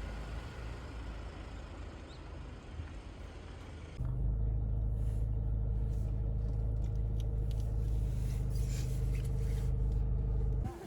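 Steady low rumble like a running vehicle. About four seconds in it abruptly gets louder, with a steady hum on top, and it drops away just before the end.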